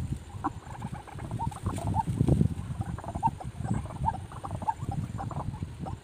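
A bird giving short squeaky calls, a few a second, over low rustling and bumping in the undergrowth; the rustling is loudest about two seconds in.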